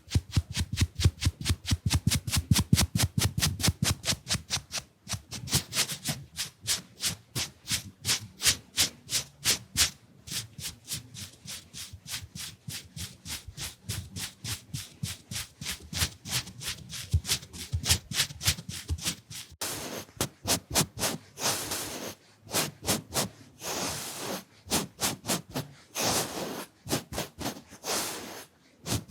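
Fan makeup brush swept quickly over the microphone, its bristles making rapid, even brushing strokes about five a second; about two-thirds of the way through the strokes turn into slower, longer hissing sweeps.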